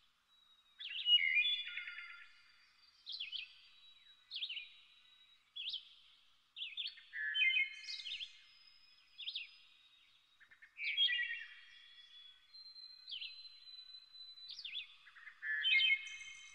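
Songbirds chirping: short phrases of quick, falling notes repeating every second or two, with a thin high whistle held between some of them.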